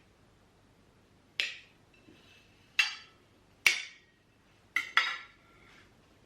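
Hard objects clinking together about five times, each with a short ring; the last two come in quick succession near the end.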